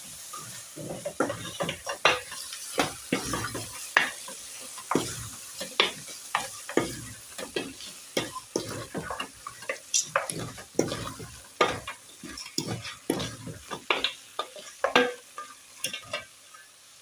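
Beef frying in a pot while it is turned with a spoon: many irregular scrapes and knocks of the spoon against the pot over a steady sizzle.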